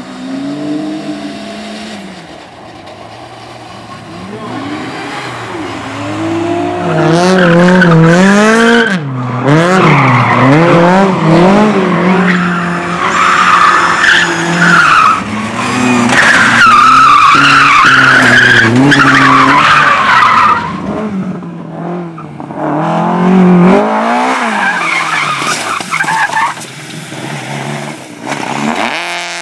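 A competition car's engine revving hard up and down through gear changes, with its tyres squealing and skidding loudly for several seconds as it slides through a corner. The engine revs again near the end.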